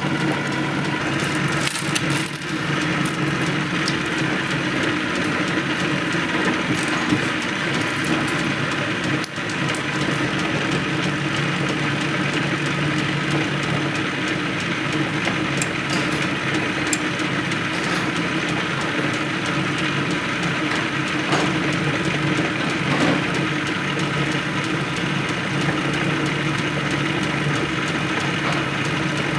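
Juki LK-1852 bartack industrial sewing machine running with a steady mechanical hum, with a few sharp clicks about two and nine seconds in.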